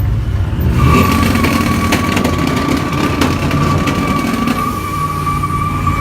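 Truck engines running with a low rumble. About a second in, a steady high-pitched whine starts and holds.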